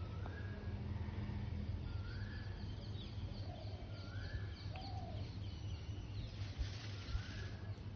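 A bird repeats a short whistled call, a quick rise then a held note, about every two seconds, with a couple of lower calls and faint high chirps in between. A steady low hum runs underneath, and there is a brief rustling hiss near the end.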